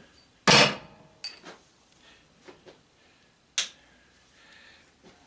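Metal tools and parts being handled on a workbench: one loud clunk about half a second in, a few light clicks, then a sharp click about three and a half seconds in.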